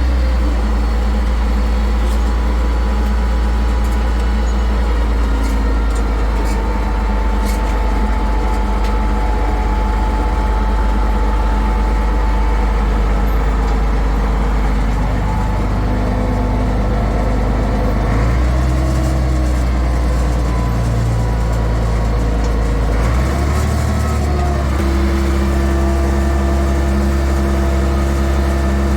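International 1066 farm tractor's engine running steadily, its engine speed shifting a few times, most noticeably about three-quarters of the way through.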